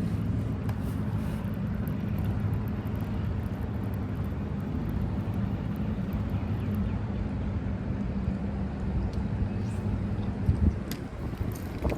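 Boat engine running steadily at a constant speed, easing off near the end, with a couple of short knocks.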